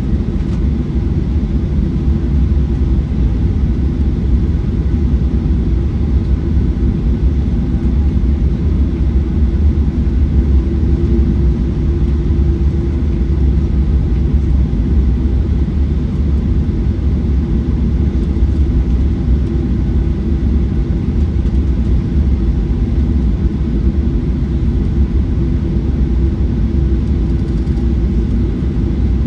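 Steady cabin rumble of a Boeing 737-900ER heard from a window seat: its CFM56 engines and the airflow make a loud, even low drone with a faint steady hum.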